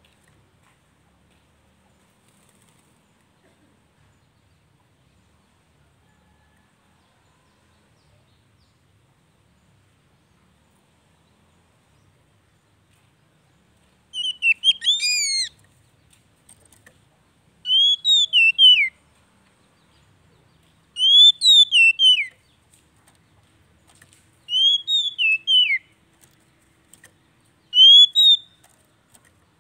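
Near silence for about the first half. Then a bird, apparently an oriental magpie-robin (kacer), sings short loud whistled phrases, each a quick run of rising and falling notes, five times at roughly three-second intervals.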